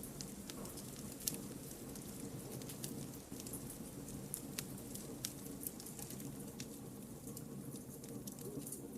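Campfire of burning firewood crackling: irregular sharp pops and snaps over a low steady rush of flame, with one louder pop about a second in.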